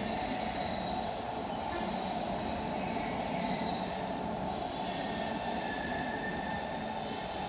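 Electric train moving slowly through the station: a steady rumble with thin, high wheel squeals over it.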